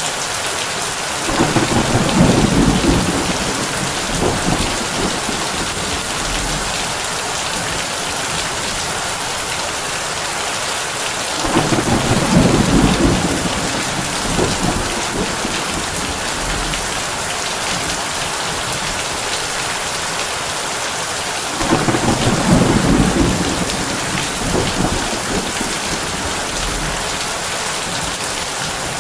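Heavy rain drumming steadily on a tin roof, with thunder rumbling low three times, about ten seconds apart, each roll lasting a couple of seconds.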